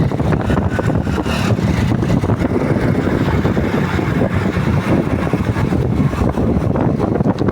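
Moving vehicle running steadily: engine and road noise with a choppy low rumble.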